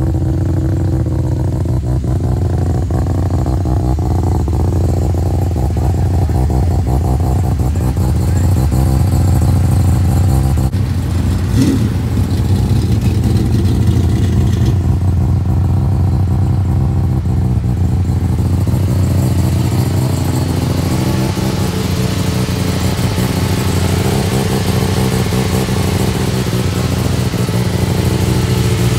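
A car engine running steadily, with a short rise in pitch about twelve seconds in.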